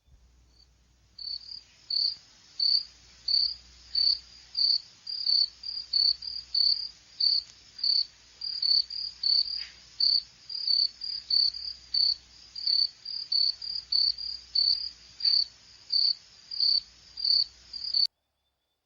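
Brazilian squirrel (serelepe) giving a long run of short, high-pitched chirps, about two a second, as in its repeated alarm call; the calling cuts off suddenly near the end.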